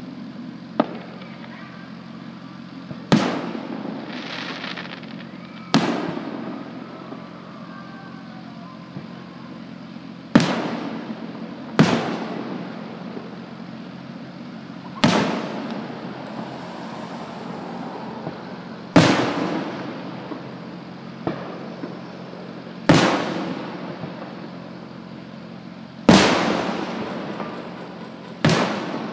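Aerial firework shells bursting one after another: about a dozen sharp bangs spaced a few seconds apart, each trailing off in a rolling echo.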